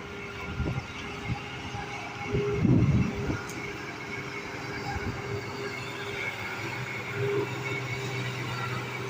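Diesel engine of a cement-loaded Hino FM truck running under load, a steady mechanical drone with a held whine over a low rumble. A louder low rumbling surge comes near three seconds in.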